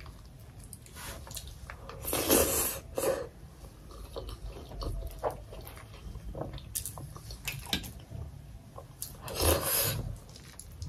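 A person chewing soft steamed momo dumplings: wet, squishy mouth sounds in irregular bursts, louder about two and three seconds in and again near the end.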